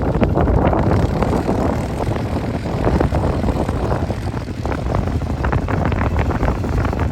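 Steady rumbling noise of a moving vehicle, with wind gusting on the microphone.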